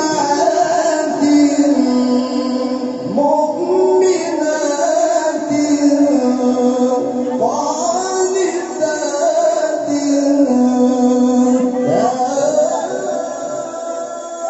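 A solo male voice in melodic Qur'anic recitation (tilawah), holding long notes with slow glides between pitches. It is sung in several long phrases, with a new phrase rising in about every three to four seconds.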